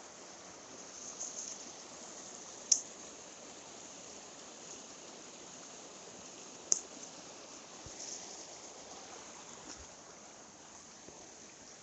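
Mountain stream water running steadily, with two sharp clicks about four seconds apart.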